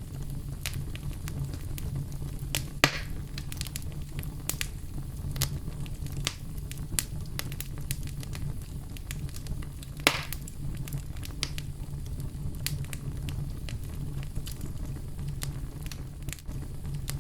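Wood fire burning in a fireplace: a steady low rumble with frequent sharp crackles and snaps, and two louder pops about 3 seconds and 10 seconds in.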